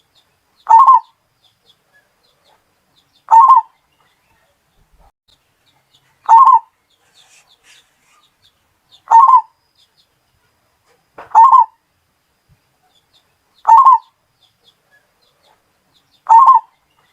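Bali perkutut (zebra dove) cooing: seven short calls, evenly repeated about every two to three seconds.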